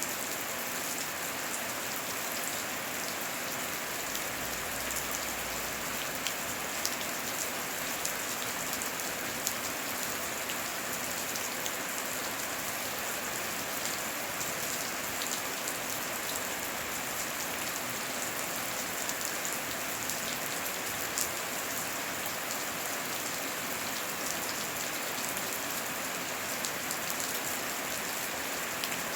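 Steady heavy rain falling, a constant wash with many sharp individual drop hits scattered through it.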